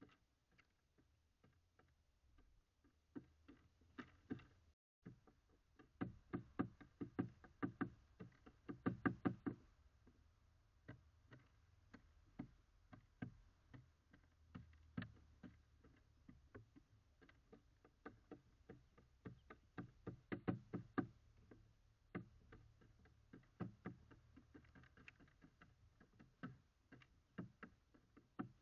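Small birds pecking seeds on a feeder: rapid, irregular taps and knocks of beaks on seed and feeder, in clusters, loudest a few seconds in, picked up close by a microphone inside the feeder.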